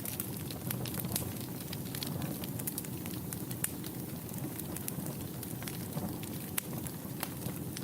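Wood fire burning in a fireplace: a steady low rumble of flame with irregular crackles and pops, several a second, a few of them sharper and louder.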